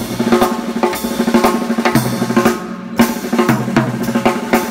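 Drum kit played in a warm-up groove: kick, snare and cymbal hits about twice a second, with the cymbals ringing on between strokes.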